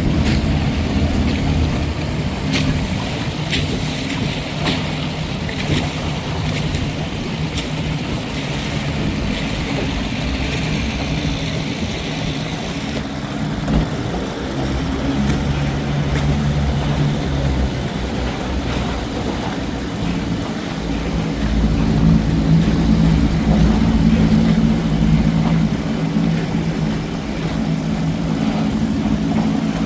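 Johnson 20 hp outboard motor running steadily with the boat underway, over wind and water noise. Its engine note shifts partway through and grows louder about two-thirds of the way in.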